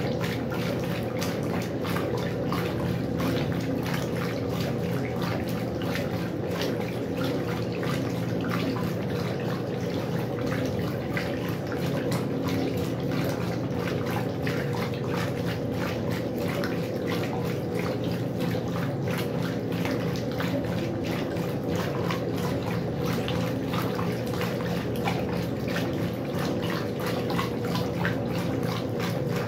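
Westinghouse washing machine running, water splashing and churning in the tub over a steady motor hum.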